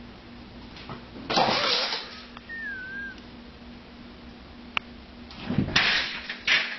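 A startled cat hissing in short noisy bursts: one about a second and a half in, and a longer run of them near the end, with a brief thin squeak in between.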